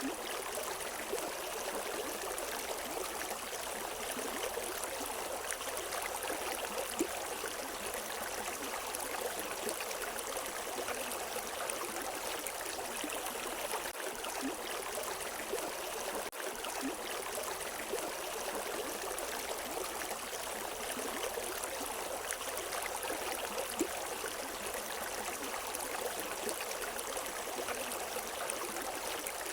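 River water running over rocks: a steady rushing with small splashes and gurgles, level throughout.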